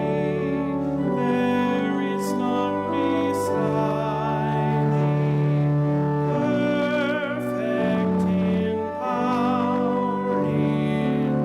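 A slow praise hymn: a sung melody with vibrato over sustained instrumental accompaniment.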